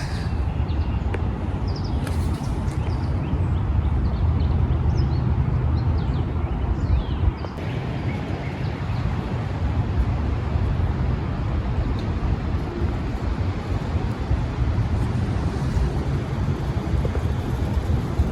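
Steady low outdoor rumble with a haze of noise over it, and a few faint high chirps now and then in the first half.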